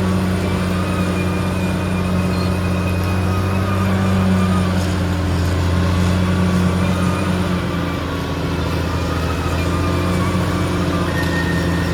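Caterpillar D6R XL bulldozer's diesel engine running steadily under load, with a faint high whine above it. The engine note eases slightly about eight seconds in.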